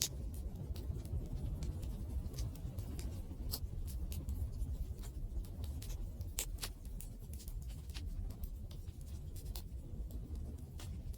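Wood fire burning: a low steady rumble of flame with irregular sharp crackles and pops from the burning wood, a few of them louder than the rest.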